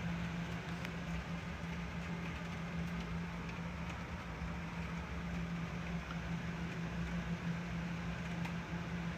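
Steady rain from a passing thunderstorm, with a few faint ticks of drops and a constant low hum underneath.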